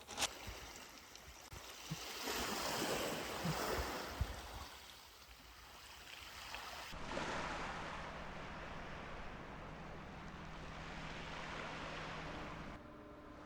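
Rushing outdoor noise that swells and fades, like wind or surf, changing abruptly about seven seconds in and again near the end, with a faint steady low hum in the middle stretch.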